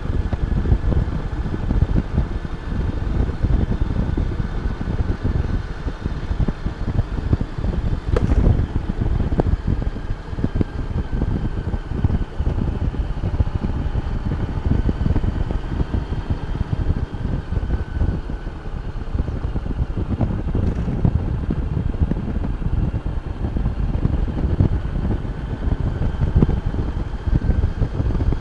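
Honda Gold Wing motorcycle under way: its engine and road noise, mixed with a heavy, fluttering wind rumble on the microphone, and a faint steady whine above it. There is one sharp tap about eight seconds in.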